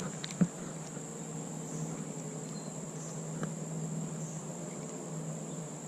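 Insects, likely crickets, trilling steadily in a high pitch, with a few light handling clicks at the very start.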